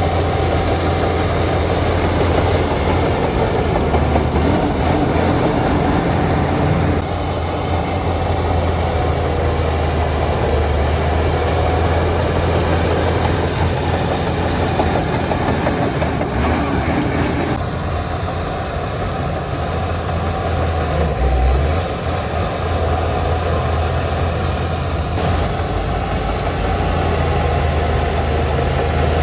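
Heavy diesel earthmoving machinery, a bulldozer and dump trucks, running loudly and steadily with a deep engine hum. The sound shifts abruptly a few times.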